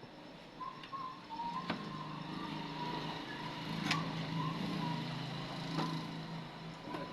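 A steady, low motor hum that starts about a second in, with a wavering higher tone above it, and four sharp clicks about two seconds apart.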